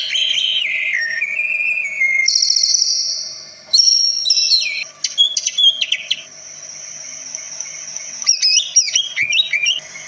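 Green leafbird (cucak ijo) singing a varied run of clear whistled notes that jump up and down between pitches. Quick twittering notes follow near the end.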